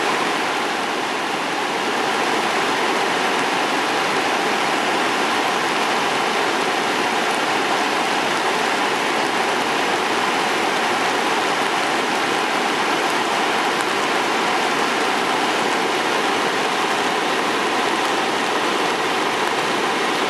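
Steady roar of Sogi Falls on the Sendai River running high and fast after days of rain.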